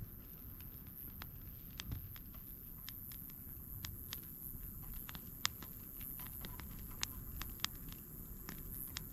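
Wood campfire crackling: irregular sharp pops and snaps, a few a second, over a low steady rumble.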